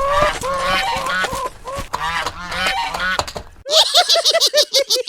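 Goose-like honking calls, a few a second, turning into a faster, louder run of calls near the end.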